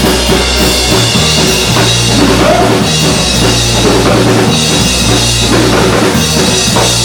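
Rock band playing loudly: a driving drum kit over a bass line.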